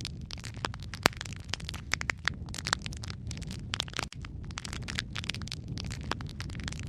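Logs burning in a fireplace, crackling with many quick sharp pops over a steady low rumble of the flames; the loudest pop comes about a second in.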